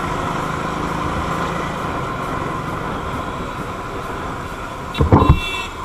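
Steady road and engine noise of a motorcycle riding, then a short, loud burst with a high ringing edge about five seconds in.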